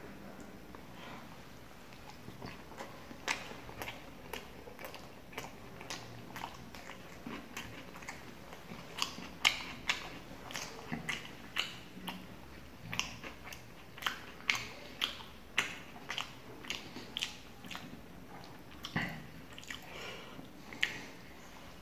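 Close-up chewing of a person eating roti with tarka: a long run of short mouth clicks and smacks, about one or two a second, thickest in the middle.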